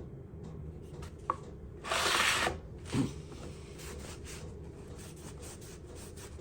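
Handling and wiping a cleaned cross vice part: a small click, then a brief loud rubbing, scrubbing sound about two seconds in and a low knock just after, with light rustling over a steady background hum.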